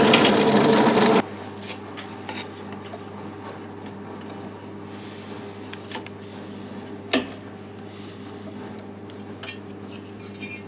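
A power saw in a woodworking shop runs loudly and cuts off suddenly about a second in. A low steady hum follows, with light clicks and knocks of wood being handled, and one sharp knock about seven seconds in.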